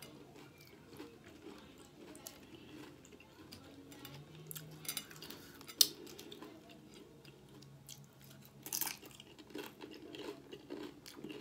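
Close-miked chewing and crunching of cheese-topped nacho chips, with small wet mouth noises. A single sharp click a little past halfway is the loudest sound.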